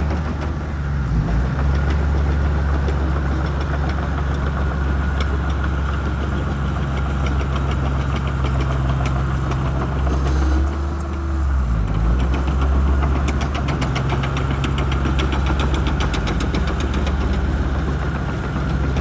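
Shantui crawler bulldozer's diesel engine running steadily while working, with a fast rattle of regular clicks through much of it. The engine note dips briefly about a second in and again around the middle.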